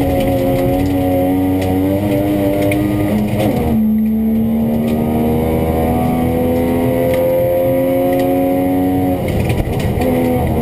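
Rally car engine heard from inside the cabin, pulling hard under full throttle: the revs climb, drop sharply at a gear change almost four seconds in, then climb slowly again through the next gear. Near the end there is a brief lift and a drop in revs.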